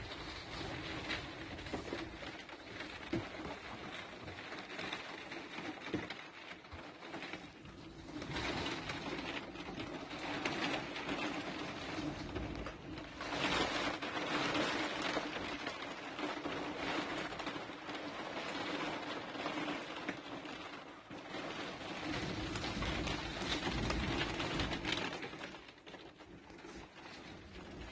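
Rain on a motorhome roof heard from inside the cabin, growing heavier and easing off in waves, lighter near the end; a steady low hum runs underneath.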